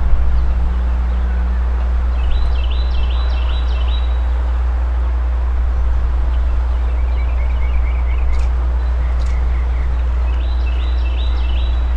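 Birds calling in short quick runs of high chirps, over a steady low rumble.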